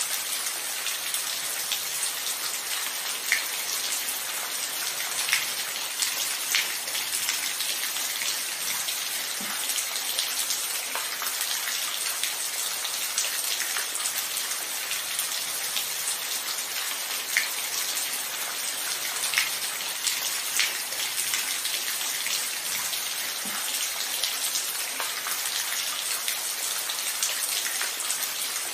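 Steady rain falling: a dense, even hiss of drops, with a few louder single drops striking sharply every few seconds.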